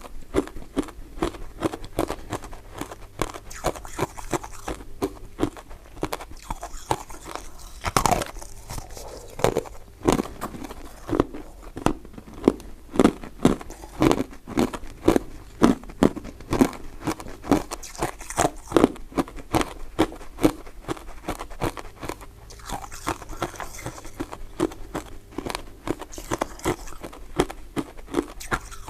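Close-up eating of powder-coated mint sweets: biting and chewing in a quick, continuous run of small crunching clicks, several a second, with one louder bite about eight seconds in.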